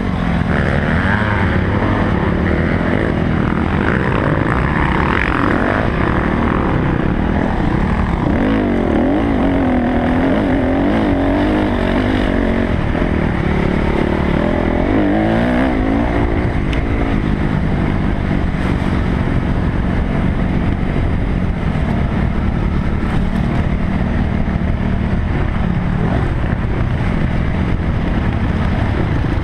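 Dirt bike engine running as the bike is ridden along a trail, its pitch rising and falling with the throttle, heard from an onboard GoPro camera.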